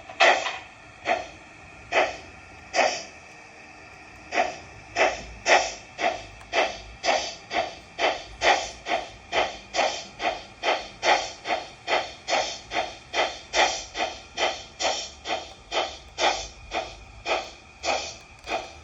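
Steam-exhaust chuffs from the sound decoder of a Märklin H0 model of the DRG class 06 steam locomotive, played through its small built-in speaker. A few slow chuffs about a second apart, a short pause, then a steady chuffing of about two a second as the locomotive runs.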